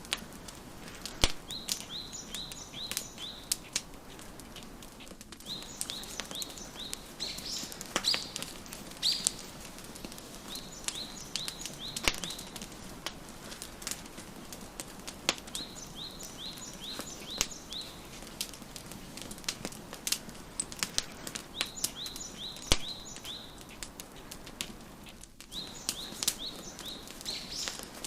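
Wood fire crackling, with irregular sharp pops over a soft hiss, while a songbird repeats a short phrase of quick, high notes about every five seconds.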